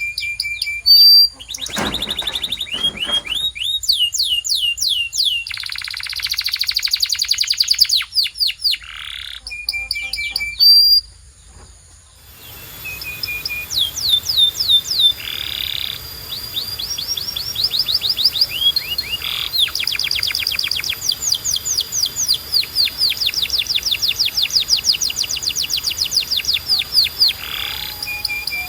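Domestic canary singing a long, varied song of fast trills, rattling runs and short held whistles, with a brief pause about eleven seconds in.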